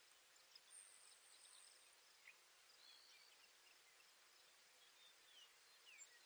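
Near silence: faint outdoor hiss with a few faint, high, short bird notes and a brief faint high buzz about a second in.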